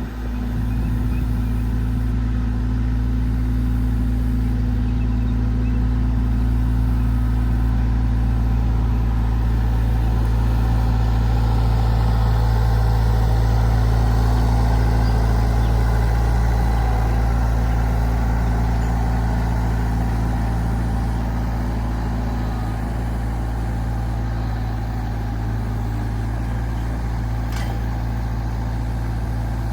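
Tractor engine running steadily, a continuous low drone that swells slightly partway through and eases back a little later. A single sharp click near the end.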